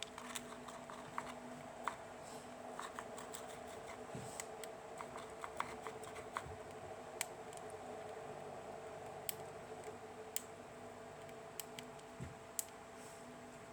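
Scattered, irregular light clicks and taps, a few a second at most, over a steady faint hum.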